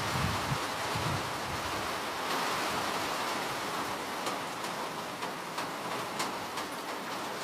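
Steady rain falling: an even hiss with individual drops ticking sharply here and there, and a faint low rumble in the first second.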